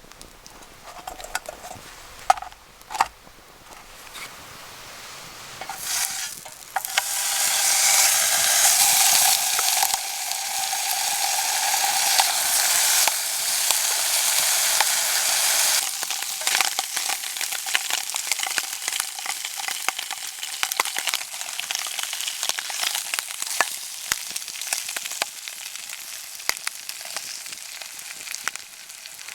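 Food frying in a pan over a campfire. After a few faint knocks, a loud sizzle starts suddenly about seven seconds in, then eases after about sixteen seconds into quieter sizzling with many small pops.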